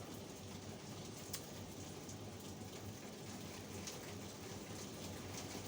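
Steady rain falling, a soft even patter with scattered individual drop ticks.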